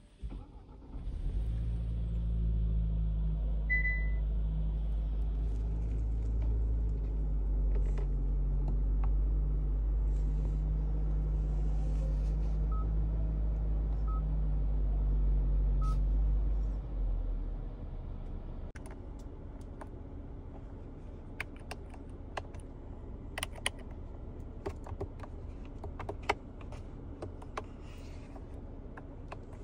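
Hyundai Tucson's turbocharged petrol engine starting about a second in and idling with a steady low rumble, which drops noticeably quieter after about seventeen seconds. A few short electronic beeps come from the infotainment touchscreen, and from about nineteen seconds on, scattered light clicks come from fingers pressing the touchscreen and the centre-console buttons.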